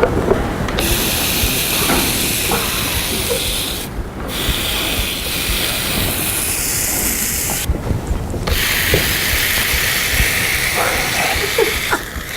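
Ham sizzling on a portable grill, a steady loud hiss that starts about a second in and drops out briefly twice.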